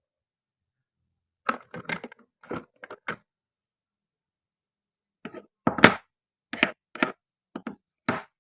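Toy fruit being cut with a toy knife on a cutting board: two clusters of sharp clicks and cracks, about two seconds apart.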